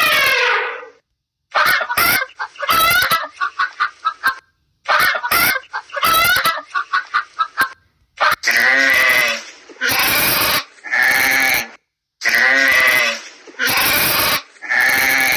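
Farm animal calls. Short, wavering, choppy calls in clipped bursts come first. From about eight seconds in there are six bleats, each roughly a second long.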